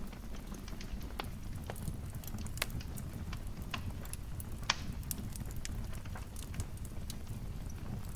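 Wood fire crackling: scattered sharp pops and snaps over a low steady rumble, with one louder pop about halfway through.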